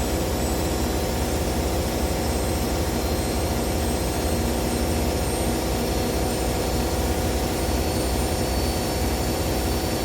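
Two front-loading washing machines, a Hoover H-Wash 300 and a Hoover Dynamic Next, spinning at high speed near the end of their cycles. Their drums and motors make a steady, loud whirring drone that does not change.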